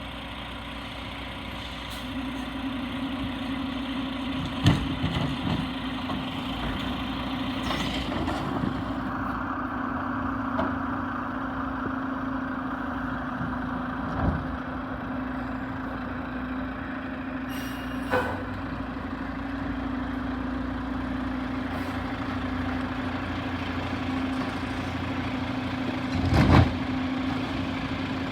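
Garbage truck's diesel engine running steadily, picking up a little about two seconds in, with a few sharp clanks and knocks over it, the loudest near the end.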